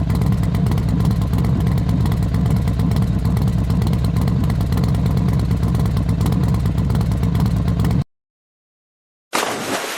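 Vehicle engine running steadily under load, cutting off abruptly about eight seconds in. After a second of silence a rushing, splashing noise starts near the end.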